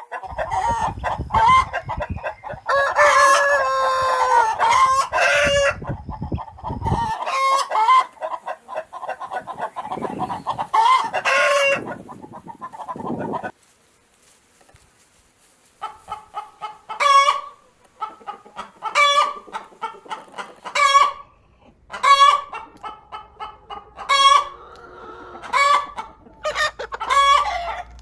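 Chickens clucking and calling, several birds overlapping in the first half. After a short lull about halfway through, a run of repeated call bursts, each a few short clucks ending in a louder note, comes about every one to two seconds.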